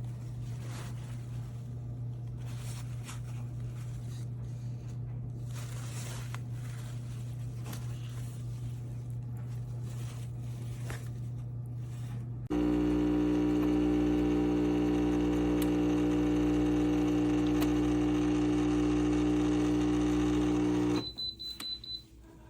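Espresso machine's 20-bar pump: a low steady hum with faint clicks, then about halfway a much louder steady buzz starts suddenly, runs about eight seconds and cuts off. A short high beep follows near the end.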